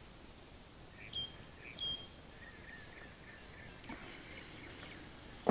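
Quiet outdoor ambience: two short, high bird chirps about half a second apart, over a faint steady high-pitched insect-like buzz. A sharp click sounds at the very end.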